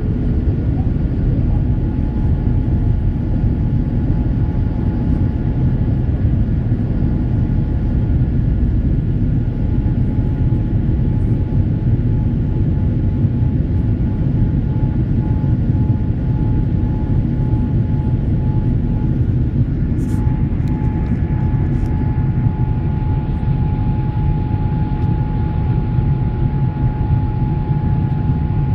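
Boeing 787 Dreamliner jet engines running, a steady loud rumble with a faint steady whine over it.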